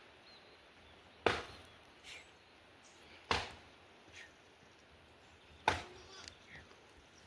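Three sharp chopping strikes about two seconds apart, each followed by a softer knock.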